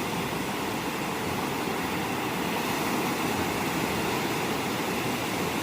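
Surf breaking on a beach: a steady, unbroken rush of waves with no distinct individual crashes.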